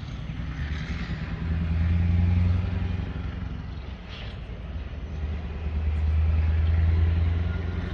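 A motor vehicle running on the road, a steady low rumble that swells twice.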